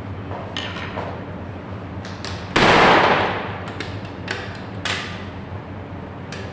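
Scattered knocks and clicks over a steady low hum, with one loud sudden rush of noise about two and a half seconds in that fades away in under a second.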